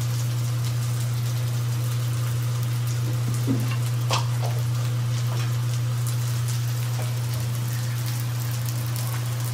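Ground spices and onions frying in mustard oil in a pan, a steady fine crackling sizzle, over a steady low hum.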